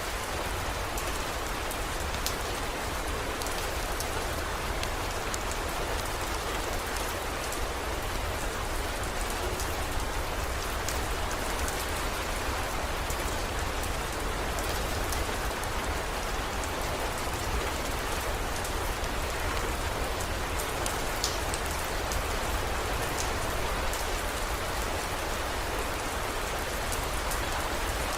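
Steady heavy rain falling, with scattered sharp drop ticks over it and a steady low rumble underneath.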